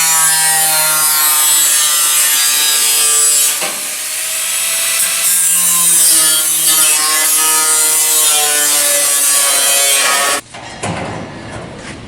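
Power tool cutting sheet steel as a replacement body panel is trimmed to fit, its pitch wavering as it bites. It stops abruptly about ten seconds in, followed by a few light knocks.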